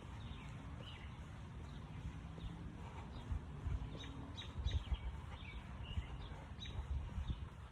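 Small birds chirping in short, scattered calls, over irregular dull low thumps.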